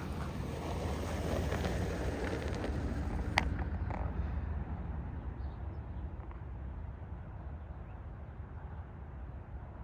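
A vehicle passing: a low rumble that swells over the first few seconds and then fades away, with one sharp click about three and a half seconds in.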